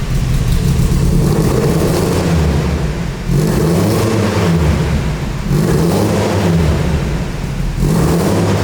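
Lancia Fulvia 1300 Rallye's narrow-angle V4 engine running and revving, its pitch rising and falling, with short dips in loudness about a third of the way in, midway and near the end.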